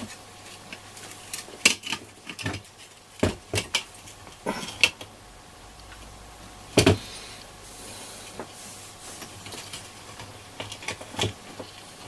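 Scattered small clicks, taps and clatters of hand tools being picked up, used and set down on a workbench during desoldering with solder wick, with one sharper knock about seven seconds in, over a faint steady hum.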